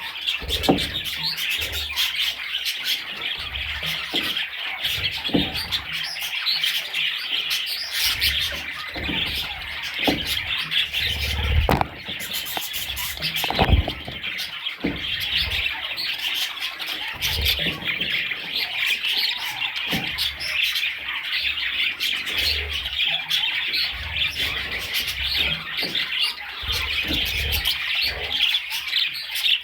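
Budgerigars chirping and chattering continuously in a dense, high-pitched stream, with scattered soft knocks.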